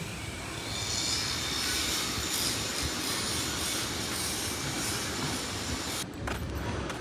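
Metalworking tool working steel: a harsh, high-pitched hissing screech that swells about a second in, holds steady, and cuts off suddenly about six seconds in.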